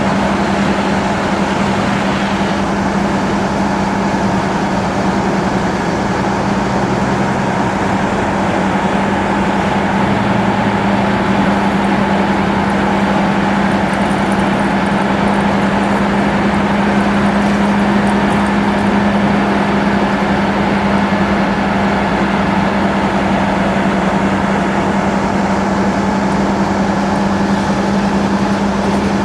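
Steady, unchanging drone of a fire truck's engine running at a constant speed, with a strong low hum.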